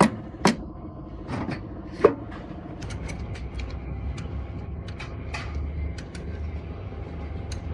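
Sharp knocks and taps of metal parts or tools being handled, three loud ones in the first two seconds, then lighter scattered clicks over a low steady hum.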